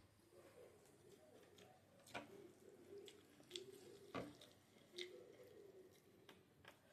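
Faint chewing and mouth sounds of someone eating chicken curry, with a few sharp wet clicks.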